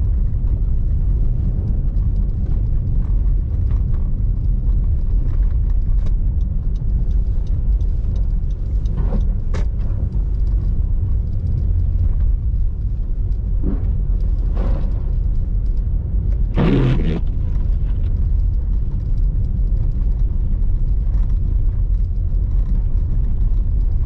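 Steady low rumble of a car driving on snowy city streets, engine and tyre noise. A few short, sharper sounds stand out about 9, 15 and 17 seconds in, the last the loudest.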